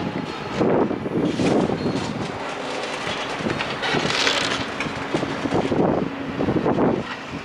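Demolition machinery at work: an engine running under irregular crunching and clattering of broken debris, with a brief hiss about four seconds in.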